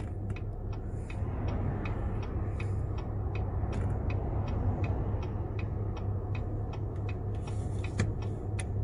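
Car indicator clicking steadily, a few clicks a second, over the low hum of the car running, heard from inside the cabin.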